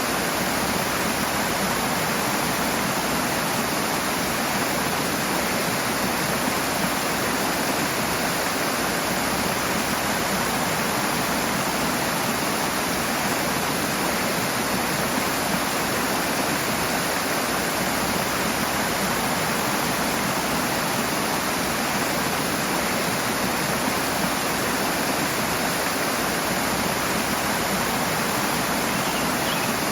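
Rushing water pouring steadily, an unbroken full hiss with no change in level.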